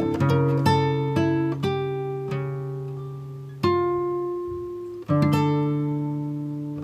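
Background music played on a plucked acoustic guitar: picked notes and chords ringing out and fading, with new chords struck twice in the second half.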